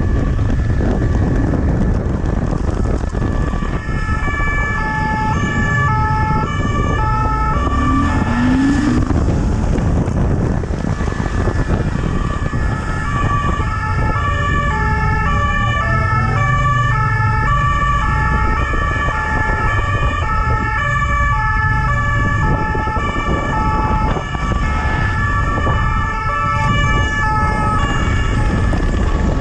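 Two-tone emergency-vehicle siren, switching back and forth between two pitches about twice a second, over a steady low rumble of traffic and wind. A steady high tone sounds throughout.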